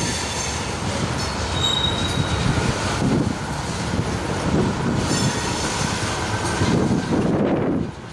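Freight train of tank cars rolling past at close range: steel wheels on rail with a low rumble that swells every second or two as the cars go by. A short high wheel squeal comes about two seconds in.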